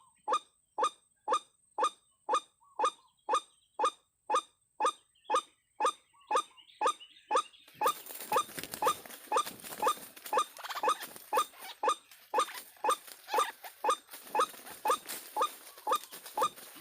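White-breasted waterhen's 'ruak-ruak' call, one short rising note repeated over and over at a very even pace of about two a second. About halfway through, a steady noisy rustle joins it.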